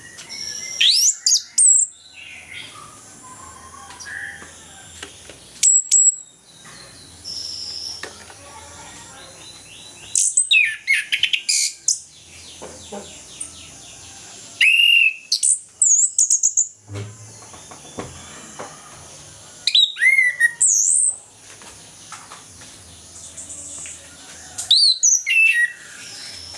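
Chestnut-capped thrush (anis kembang) in full song: loud whistled phrases with sweeping rises and falls in pitch every few seconds, and quieter twittering between them.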